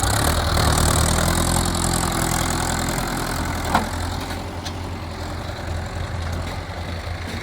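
Mahindra Arjun Novo 605 tractor's diesel engine running steadily at idle, easing down slightly about three seconds in, with one short click a little later.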